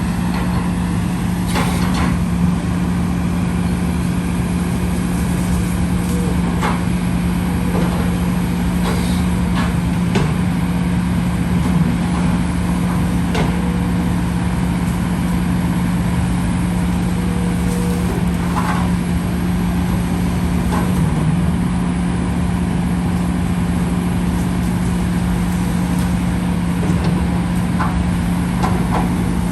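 Diesel engine of heavy earth-moving machinery running steadily at constant speed while dredging silt from a canal, with a few scattered knocks and clanks.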